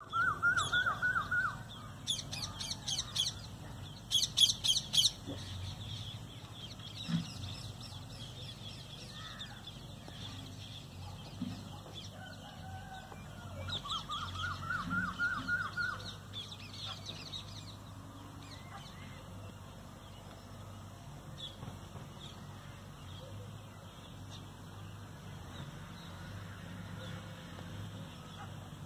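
Birds calling in a few bursts of rapid repeated notes: a lower chattering series at the start and again about fourteen seconds in, and high quick trills around two and four seconds in, over a low steady hum.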